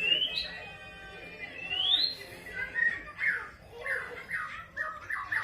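Bird calls: rising whistles and then a quick run of chirps.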